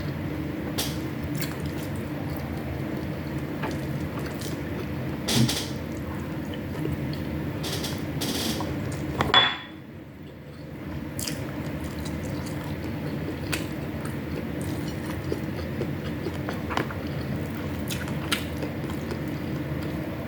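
Mukbang eating sounds: scattered sharp clicks and clinks of utensils on a plate, with chewing, over a steady low background hum. A louder clatter comes about nine seconds in.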